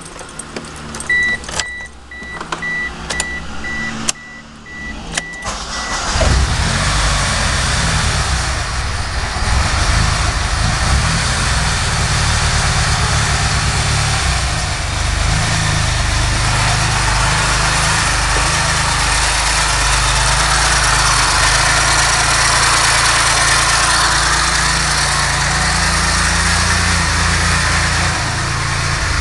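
A chime beeping about twice a second with a few clicks, then about six seconds in the 1997 Mitsubishi Eclipse GSX's turbocharged 4G63 engine starts and runs with a loud, horrible grinding noise over it. The grinding comes from a broken oil pump sprocket, in pieces and grinding against the oil pump.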